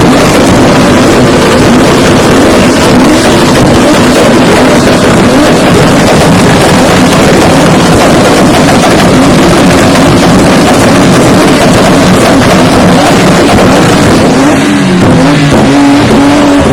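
Car engine held at high revs on a two-step launch limiter, the exhaust crackling and banging in a rapid, continuous stream, very loud. Near the end the revs waver and come down.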